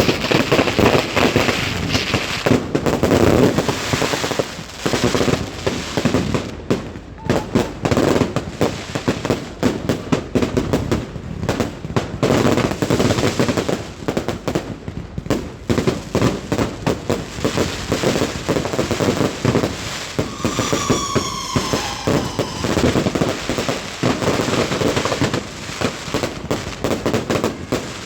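Fireworks going off in rapid, continuous volleys of bangs and crackles, with a short falling whistle about two-thirds of the way through.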